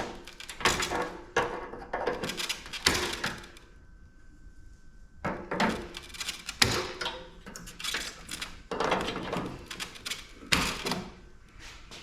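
Metal clanks, knocks and rattles from the sheet-metal parts of a PTAC air conditioner being handled and pried at during dismantling, in irregular bursts, some ringing briefly, with a short pause about four seconds in.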